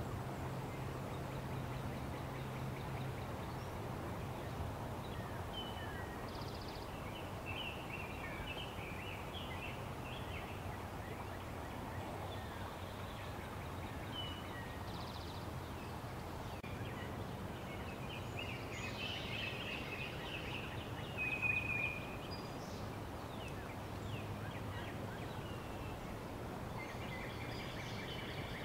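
Birds chirping and calling over a steady background hiss, with a short, louder run of chirps about three quarters of the way through.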